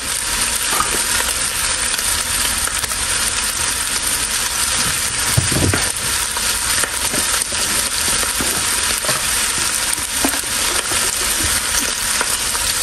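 Beef tendon with lemongrass and onion sizzling in oil in a pot: a steady frying hiss with small crackles, and a soft knock about five seconds in.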